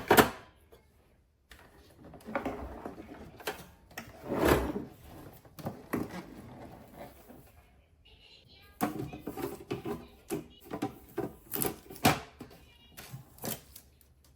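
Parts of an espresso machine being handled: an irregular series of plastic clicks, knocks and sliding clatter, like a tray or compartment being pulled out and pushed back in.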